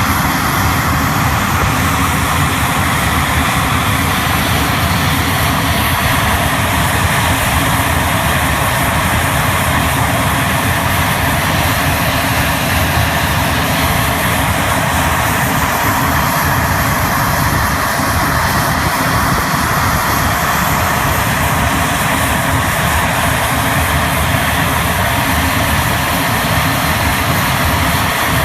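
Propeller airplane engine running steadily and loudly close by, a constant rushing drone with no rise or fall.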